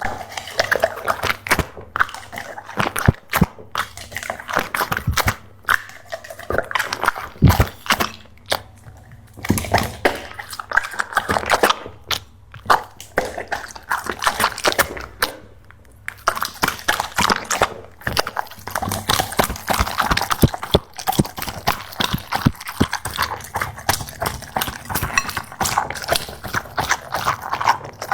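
Labrador dog making rapid, irregular wet mouth sounds, clicks and smacks in runs broken by short pauses, as when a dog eats or laps.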